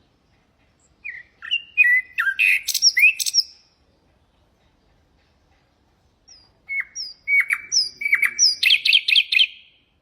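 Nightingale singing two phrases of varied whistled and chirping notes, one about a second in and another about six seconds in. The second phrase ends in a fast run of repeated notes.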